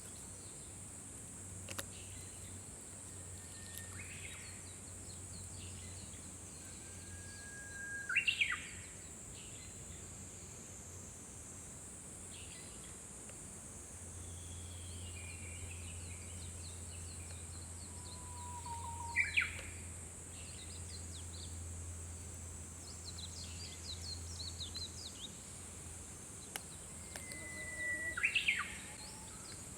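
Japanese bush warbler singing its 'hoo-hokekyo' song three times, about ten seconds apart: each a held whistled note followed by a quick, sharp flourish. Smaller bird chirps come between the songs, over a steady high insect drone.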